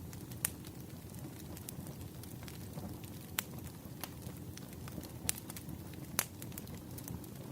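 Wood fire crackling in a fireplace: a steady low rumble of burning with four sharp pops scattered through it.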